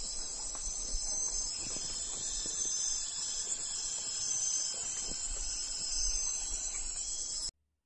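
Steady, high-pitched insect chorus that cuts off suddenly near the end.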